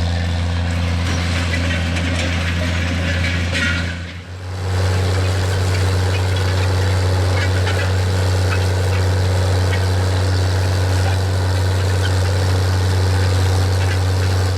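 John Deere 9420 tractor's 12.5-litre diesel engine running steadily under load while pulling a vertical tillage disk, a loud, deep, even drone. The sound dips briefly about four seconds in, then carries on at the same steady pitch.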